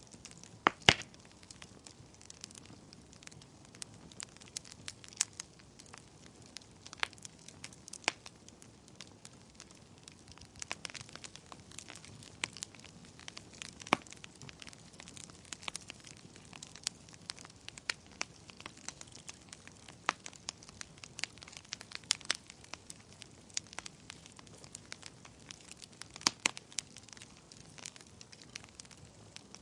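Wood fire burning in a fireplace, crackling with irregular sharp pops and snaps over a faint steady hiss, the loudest pops about a second in.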